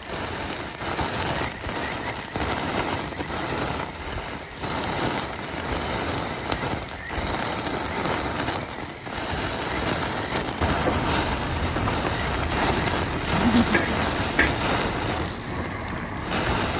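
Skewers of pork and vegetables sizzling and crackling on the grill: a loud, dense hiss that starts and stops abruptly.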